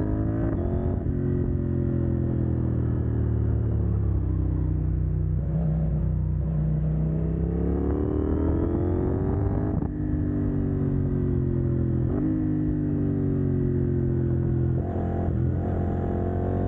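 CF Moto 800NK's parallel-twin engine on the move, run decat with the catalytic converter removed. The revs rise and fall, with short breaks in the note at a few gear changes, the last one near the end.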